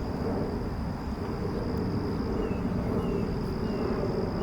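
Outdoor background noise: a steady low rumble with a thin, steady high-pitched tone over it, and a few short falling chirps in the second half.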